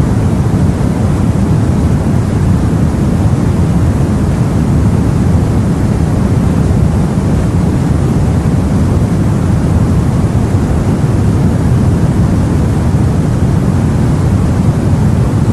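Steady, low sea and wind ambience as heard aboard a boat: an even wash of noise, deep in pitch, with no separate wave crashes standing out.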